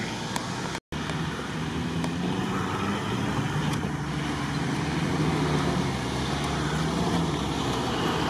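Off-road 4x4 engines running as the vehicles drive a dirt race course. The engine note wavers up and down and slowly gets louder. The sound cuts out completely for a moment about a second in.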